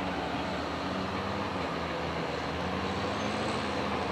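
Diesel locomotive engine running steadily, a low even drone with a noisy wash over it.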